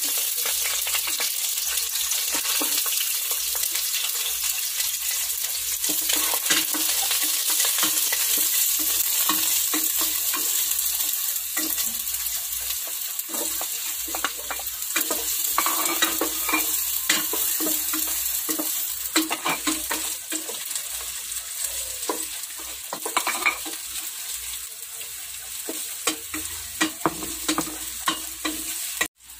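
Garlic, ginger and onion sizzling in hot oil in a stainless steel pot, stirred with a plastic spatula that scrapes and clicks against the pot. The sound cuts off abruptly near the end.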